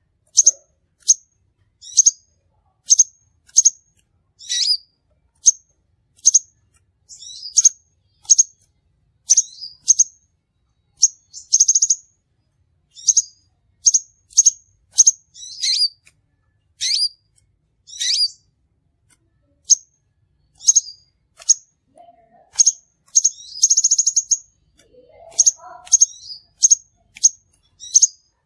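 Crimson sunbird calling: sharp, high-pitched chirps repeated about once or twice a second, with a couple of brief buzzy trills. This is the kind of call used as a lure to attract the bird.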